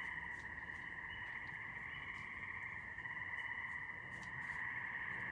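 A steady chorus of calling night animals, a continuous high drone without a break, with short higher-pitched calls repeating about once a second on top.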